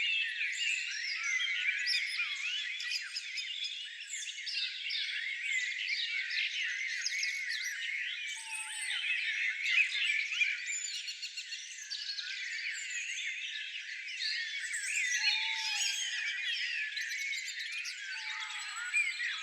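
A dense chorus of many small songbirds chirping and twittering at once, a thick overlapping mass of short high rising and falling notes with no pause.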